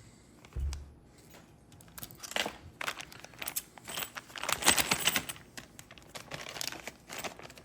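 A small plastic parts bag crinkling and rustling as it is handled, with a dull knock near the start.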